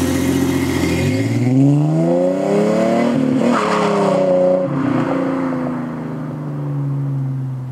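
2001 Ford Mustang's 3.8-litre V6 running through a Flowmaster American Thunder cat-back dual exhaust with shorty headers and an X-pipe, accelerating past with the engine note climbing in pitch for a couple of seconds. About three and a half seconds in the note breaks, then it falls in pitch and fades as the car moves away.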